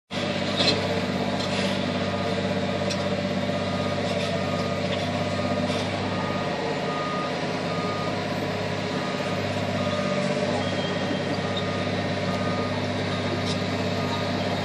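Heavy demolition machinery's engine running steadily, with a reversing alarm beeping repeatedly.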